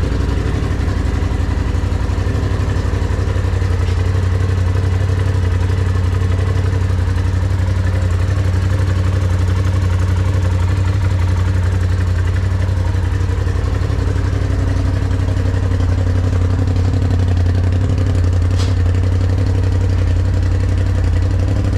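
Polaris Pro XP side-by-side's turbocharged engine running at a steady idle through a new EVO full 3-inch turbo-back exhaust, with a deep exhaust note.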